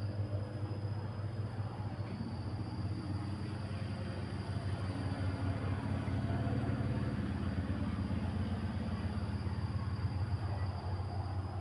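Wind blowing, a low rumble that swells about halfway through and eases near the end.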